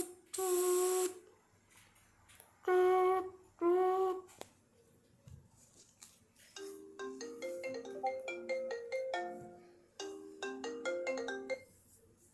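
Phone call going through: a pitched ringing tone sounds in double bursts, then a marimba-like ringtone melody of quick stepping notes plays for about five seconds before stopping.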